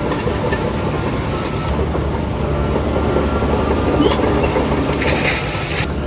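Heavy diesel earthmoving machinery running steadily under load, with a short hiss about five seconds in.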